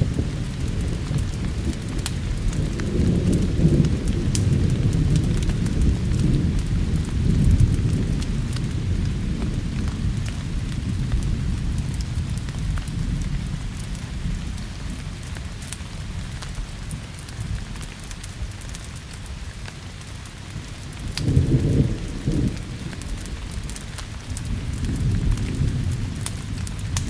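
Rolling thunder over steady rain, with scattered sharp crackles from a wood fire. The thunder is heaviest for the first several seconds, fades, then swells again briefly about 21 seconds in and once more near the end.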